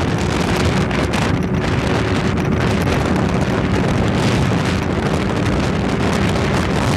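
Heavy wind noise buffeting the microphone while riding a tuned Kawasaki ZX-6R sport bike at speed, with the inline-four engine running at a steady pitch underneath.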